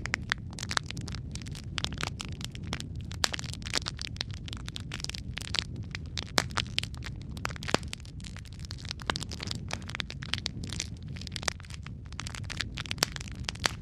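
Wood fire burning in a fireplace: dense, irregular crackling with frequent sharp pops over a steady low rumble of the flames.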